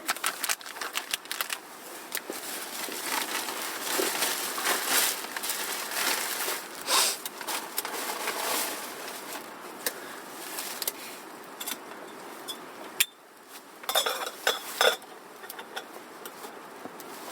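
Crinkling and rustling with small clicks and knocks as a roasted sweet potato is handled and peeled by hand. It dips to a lull about thirteen seconds in, then comes back in a few louder rustles.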